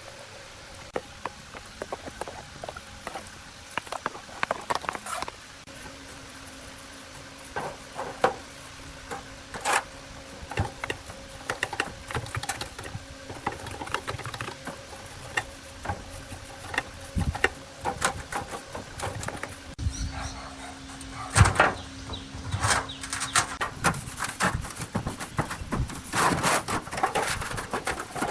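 Irregular light clicks and knocks, with one sharper knock a little past the middle, over a faint steady hum.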